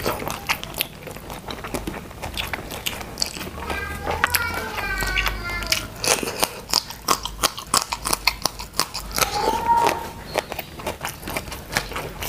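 Close-miked eating sounds: crunchy bites and chewing of raw long beans, with many short sharp mouth clicks that come thickest from about halfway through.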